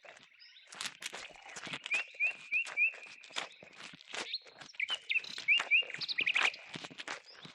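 Small birds chirping in short rising notes, in two runs, over a rapid, uneven series of knocks and clatter.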